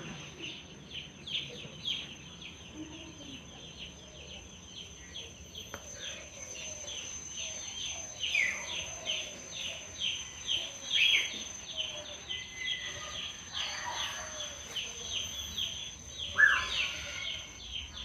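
Birds chirping in a rapid, continuous run of high cheeps, about three or four a second, with a few louder notes, the loudest near the end. A thin steady high whine runs underneath.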